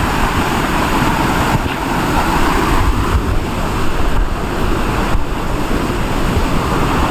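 Loud, steady rush of a fast-flowing mountain stream below a waterfall.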